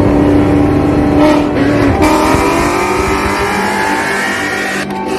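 Car engines under hard acceleration in a street race, their pitch climbing steadily as the revs rise. The sound changes abruptly near the end.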